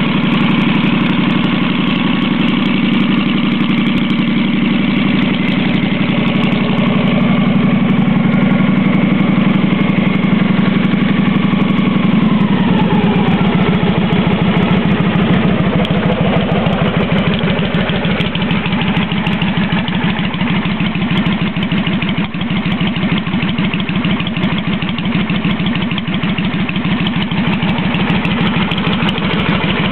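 Victory motorcycle V-twin with a Stage 1 exhaust running at high idle; about twelve seconds in the revs fall and it settles into a slower idle with distinct, separate exhaust pulses.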